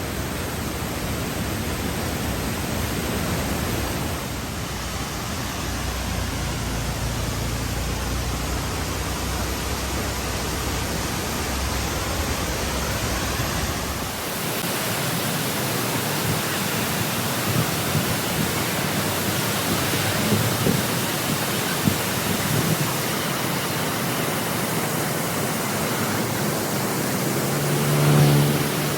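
Cheeyappara waterfall's steady rush of falling water, heard as an even hiss. About halfway through, the deep low rumble drops away. A brief pitched sound occurs near the end.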